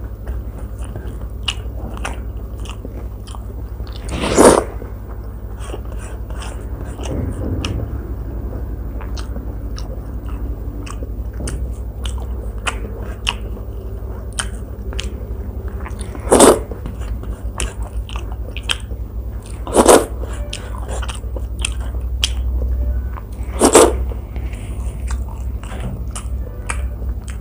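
Close-miked chewing and mouth clicks from someone eating by hand, with four louder short smacking sounds spread through, over a steady low hum.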